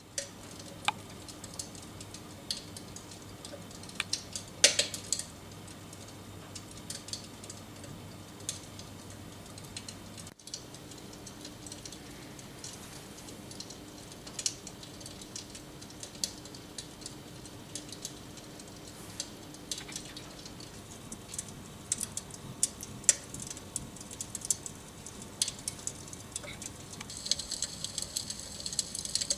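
Dimplex Opti-V electric fireplace running: a steady low hum with sparse, irregular crackling clicks that come more often in the second half.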